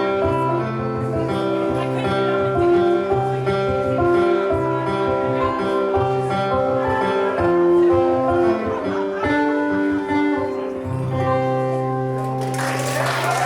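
Live guitar music: a picked, melodic guitar line over steady low bass notes. Near the end, audience applause and cheering break out over the last notes.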